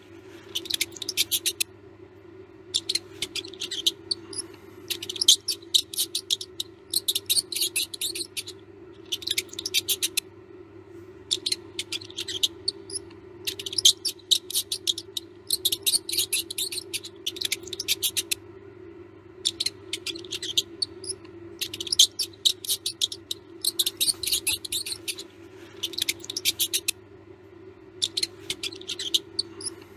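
Mouse sounds: bursts of rapid high clicking about a second long, repeating every second or two, with a few faint short squeaks, over a steady low hum.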